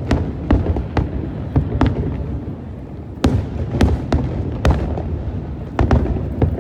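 Aerial firework shells bursting in quick succession: a dozen or so sharp booms, some close together in pairs, over a continuous low rumble, with a brief lull about two seconds in.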